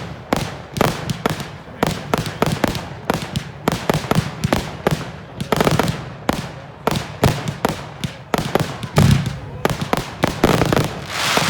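Fireworks display: a dense, continuous barrage of bangs and crackles, several every second.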